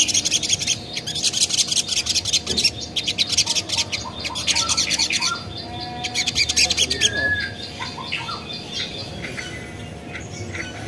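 Crimson sunbird (sogon) calling: a fast, dense run of sharp, high ticking notes, many per second, with a short break midway. A little after seven seconds the ticking stops and gives way to quieter scattered chirps and short whistles.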